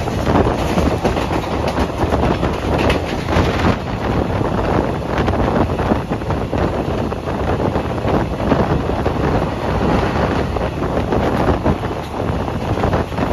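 Passenger coach of an express train running along the track at speed: a steady rumble with fast wheel clatter over rail joints, heaviest in the first few seconds, and wind buffeting the microphone.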